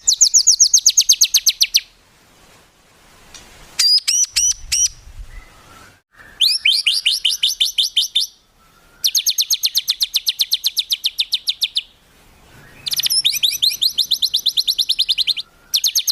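Songbird singing loud, rapid trills of fast repeated high-pitched notes in bursts of about two to three seconds with short breaks. A few separate sharp whistled notes come around four seconds in. This is a 'tembakan' (rapid-fire) call played as a masteran for training cage birds.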